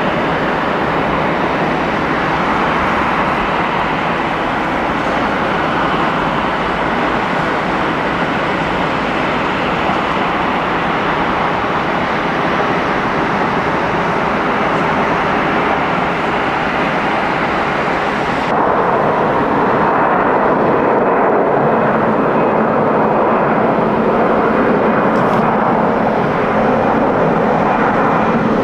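Jet airliner engines, a loud steady rush of engine noise. About two-thirds of the way through the sound switches abruptly to a different, fuller rush, as a second aircraft recording takes over.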